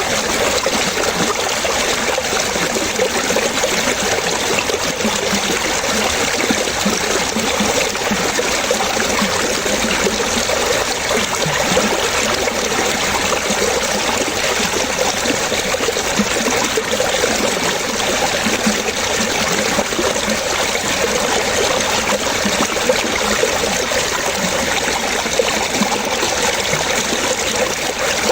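Running water trickling and splashing in a steady, unbroken stream.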